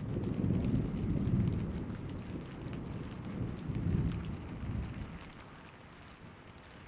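A long roll of thunder, a deep rumble that swells twice and dies away about five seconds in, over steady rain.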